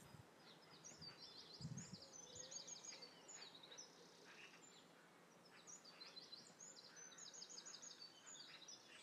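Faint songbird singing: two bursts of rapid, repeated high chirping notes, each lasting about two seconds, over a low background hiss.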